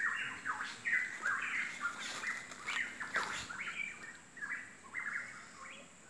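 Forest bird calling in a rapid series of short chirps, fading away over the last second.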